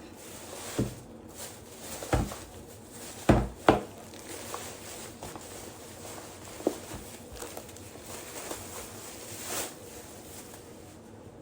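Groceries being handled and unpacked: a few sharp knocks as items are set down on a hard surface, two of them close together about three and a half seconds in, and a rustle near the end.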